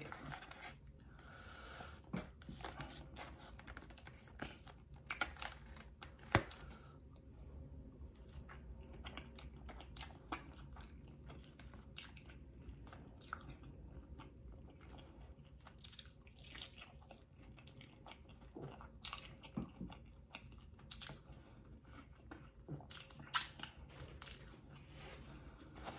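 Close-miked chewing and biting of a fried chicken tender dipped in sauce, with many irregular sharp mouth clicks and crunches.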